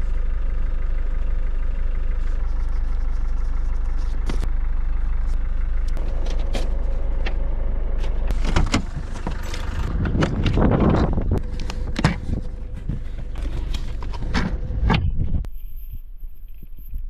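Steady low rumble of a running vehicle. About nine seconds in it gives way to a run of irregular knocks and clicks with gusts of rushing noise.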